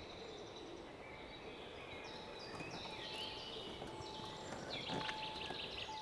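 Faint birdsong: many short chirps and trills from small birds over a low background hiss.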